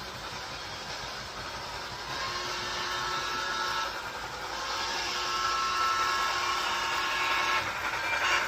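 A train running, with a steady whine over its rumble that grows louder from about two seconds in.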